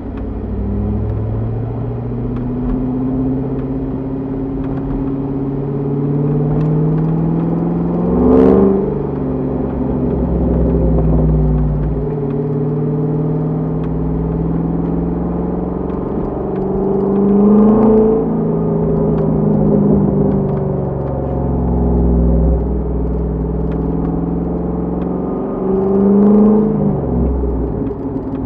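2005 Corvette C6's LS2 V8 through a Borla exhaust, accelerating through the gears. The engine note rises steadily, then drops at each of three upshifts spaced about nine seconds apart, with a brief swell in loudness at each shift.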